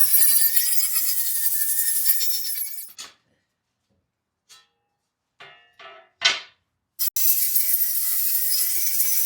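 Electric power tool running against material, a dense rasping hiss over a steady motor whine. It stops about three seconds in, a few short knocks and scrapes follow, and it starts again just after seven seconds.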